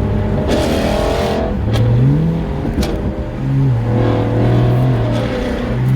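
2016 Ford Mustang GT's 5.0-litre V8, with straight pipes, an X-pipe and the resonators deleted, accelerating hard on the highway. The exhaust note, really loud, climbs in pitch and drops back a few times as it pulls through the gears.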